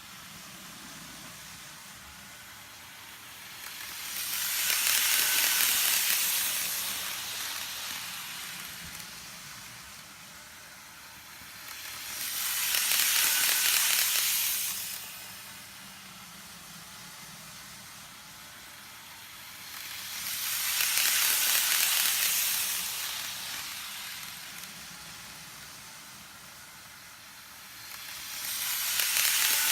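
Model trains running on a looping track, their rolling wheels and motors making a steady hiss that swells loud and fades away each time a train passes close by, four times about eight seconds apart.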